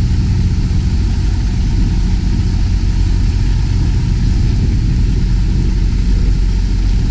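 Semi tractor's diesel engine idling steadily, a constant low hum with no change in speed.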